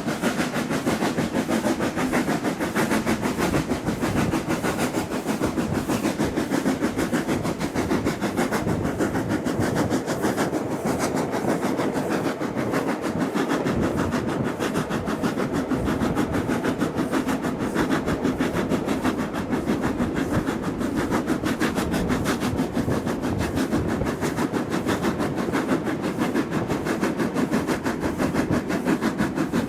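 Steam-hauled train running along the line, a steady, fast rhythm of beats with no let-up.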